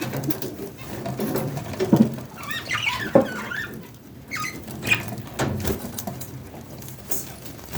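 Budgerigar chicks making short, squeaky cheeps, mixed with scuffling and a few sharp knocks.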